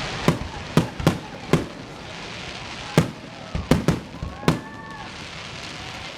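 Fireworks going off: a string of sharp bangs at uneven intervals, some in quick clusters, with a crackling hiss between them.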